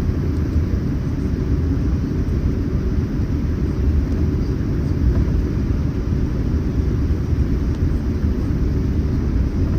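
Steady low rumble inside the cabin of a Boeing 787-9 airliner: the jet engines and aircraft noise heard from a passenger seat.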